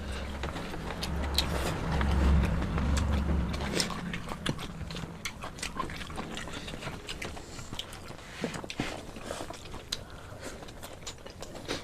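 People eating egg chow mein: close, wet mouth sounds of chewing and smacking, with many small clicks throughout. A low hum sits under the first few seconds.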